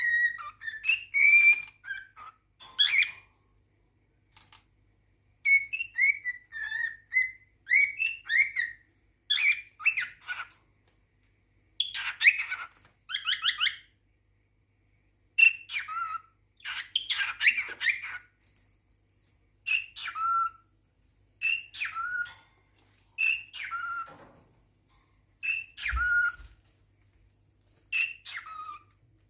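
Male cockatiel singing courtship whistles in short phrases with bursts of chatter. Over the last ten seconds a falling two-note whistle repeats about every two seconds. There is a faint low thump about 26 seconds in.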